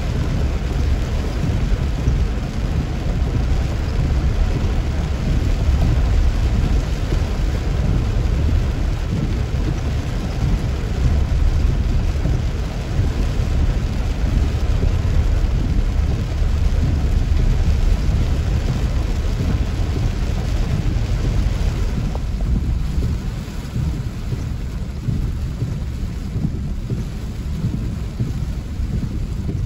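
Heavy rain falling on a car, heard from inside the cabin as a steady hiss over a deep low rumble. The hiss eases a little about two-thirds of the way through.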